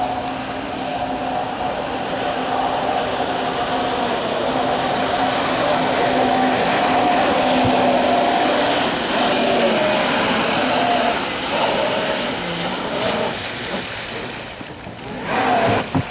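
Electric jet kayak under way: its motor and jet pump give a steady whine over the rush of water. The whine eases off about ten seconds in, and there is a short loud burst of noise near the end.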